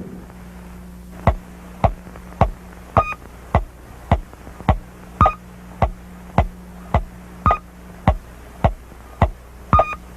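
A steady low hum with sharp, evenly spaced clicks, a little under two a second. Every fourth click or so carries a short high beep.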